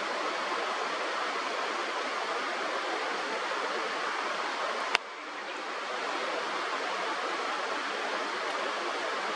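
Steady rushing of river water. A single sharp click about five seconds in, after which the water sound dips and swells back over about a second.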